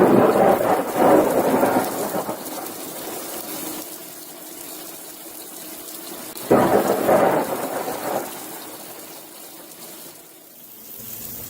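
Two claps of thunder about six and a half seconds apart over steady rain. Each starts suddenly and rumbles away over a second or two.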